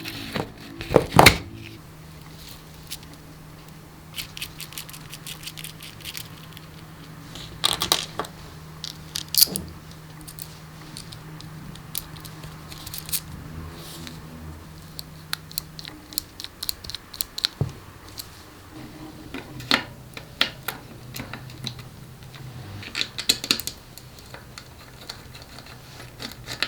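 Small clicks, taps and scrapes of hand work on parts, irregular with a few louder clusters, over a faint steady low hum.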